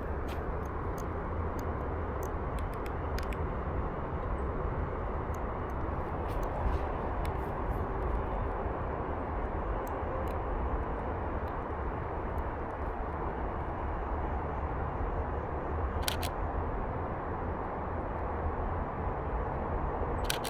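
Canon EOS RP camera shutter firing: a sharp double click about three-quarters of the way through and another just before the end, over steady outdoor background noise.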